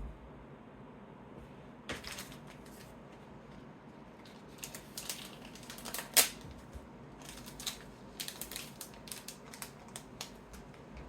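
Trading cards being handled and sorted on a table: scattered light taps, slides and clicks of cards, with one sharper click about six seconds in and a run of quick taps near the end.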